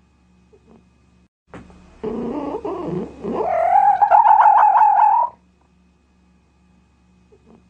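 An animal call lasting about three seconds, starting about two seconds in: a lower, broken opening, then a held, wavering high cry that stops abruptly.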